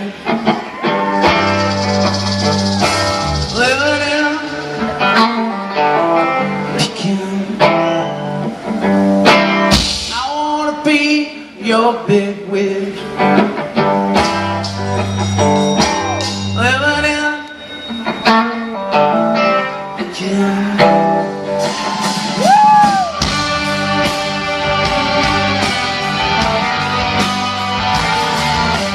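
Live rock band playing a song: sung vocal over electric guitars, bass and drums. The singing stops about 23 seconds in, and the guitars carry a denser instrumental passage.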